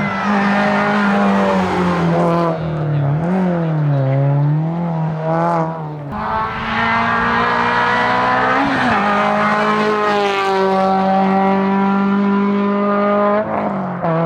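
Racing car engine flat out at high revs on a hillclimb. Its pitch drops sharply at each gear change, about 6, 9 and 13.5 seconds in, and climbs again after each; between about 2 and 6 seconds it dips and rises a few times as the throttle lifts and picks up.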